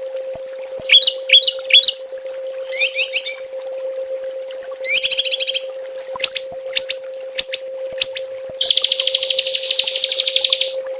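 Small songbirds giving sharp, rapid 'tembakan' calls: short chattering phrases, a few quick piercing notes, then a long fast trill near the end, over a steady low hum.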